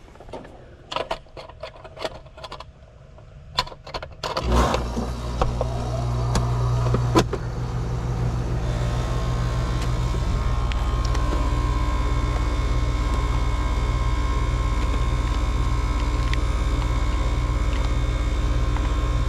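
Keys rattling and a few clicks, then about four and a half seconds in a vehicle engine starts and settles into a steady idle.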